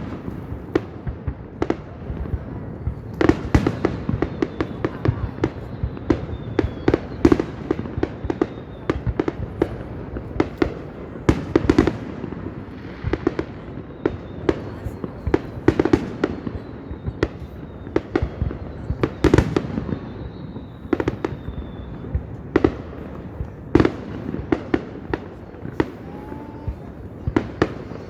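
Aerial fireworks shells bursting: an irregular, continuous run of sharp bangs, several a second with brief gaps, over a steady background of crowd noise.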